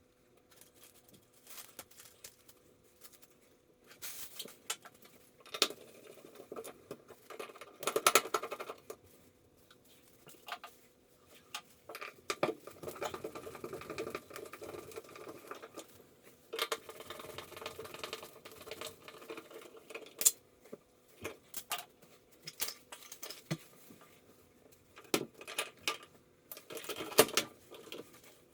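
Irregular clicks, taps and short scrapes of small hard objects being handled, in uneven clusters, loudest about 8 seconds in and again around 20 seconds.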